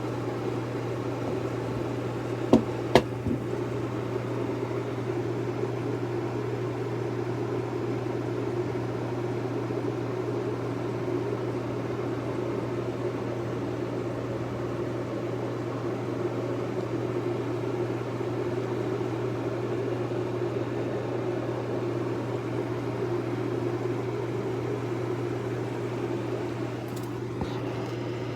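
Steady mechanical hum, like a fan or appliance running, with two sharp clicks close together about two and a half seconds in and a faint click near the end.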